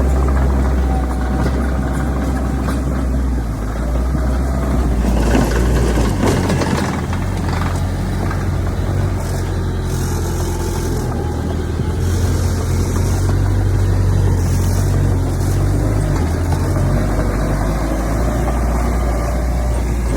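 Heavy diesel earthmoving machinery running steadily, a deep engine drone whose pitch shifts a few times as the load changes, with patches of higher scraping noise in the middle.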